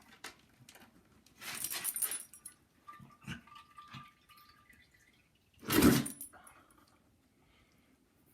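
Dog sneezing, a sneeze of unknown cause: one loud, sharp sneeze about six seconds in. A metallic jingle, like collar tags, comes about a second and a half in.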